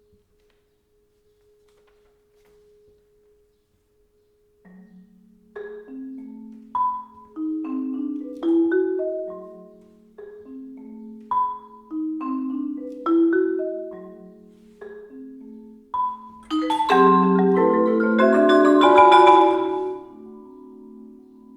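Marimbas and vibraphone playing a sparse, repeating figure of struck notes that ring and overlap, after about four seconds of near silence. About seventeen seconds in the notes thicken into a dense flurry, then a few tones are left ringing.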